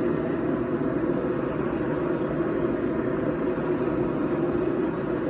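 Gas forge burner running steadily, a continuous even rush of flame with no hammer blows.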